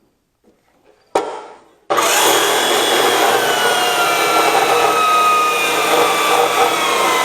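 A power tool cutting through steel stock, starting about two seconds in after a short hiss, and running steadily under load with a whine that slowly drops in pitch. It is taking the bulk of the material off a steel part.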